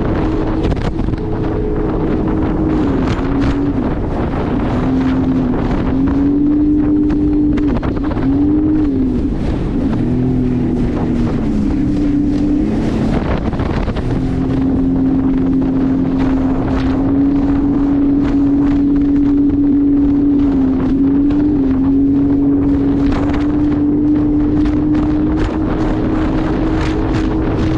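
Jet ski engine running under way, its pitch dipping and rising several times with the throttle before holding steadier and slowly climbing, with wind noise on the microphone.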